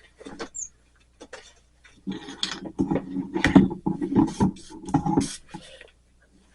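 Objects being handled on a workbench: a few scattered clicks, then a busy run of knocks and clatter for several seconds.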